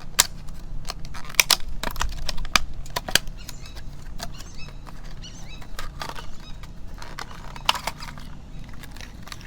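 Plastic lure packaging crinkling and clicking as a crankbait is taken out of its package. There is a quick run of sharp crackles and snaps in the first few seconds, then scattered, quieter clicks.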